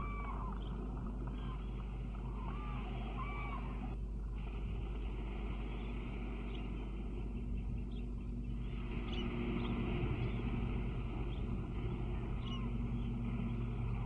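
Open-air wetland ambience: a steady low hum and hiss, with a few short rising-and-falling bird calls, one at the start, two about three seconds in and a faint one near the end. The hiss swells about halfway through.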